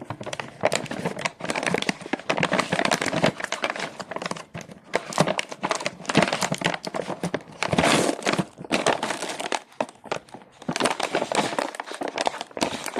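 Plastic snack packaging crinkling and crackling as it is handled, with a few short pauses.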